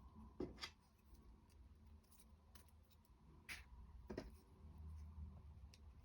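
A few light clicks and taps of small wooden clock-kit parts being handled and fitted together, against near silence: two close together under a second in, two more a little after the middle.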